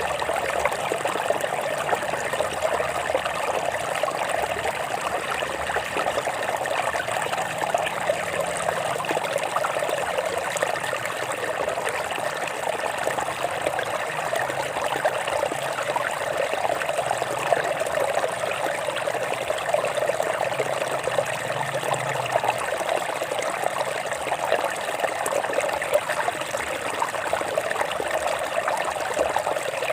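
A rocky stream flowing and trickling over stones, a steady unbroken rush of water.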